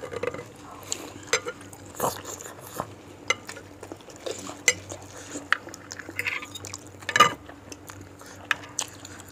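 Cutlery clinking and scraping against a bowl while bakso soup is eaten, with scattered sharp clinks, the loudest about seven seconds in.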